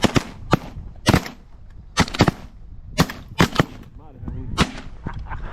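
Volley of shotgun shots from several duck hunters firing at once, about ten sharp blasts at an uneven pace, some in quick pairs.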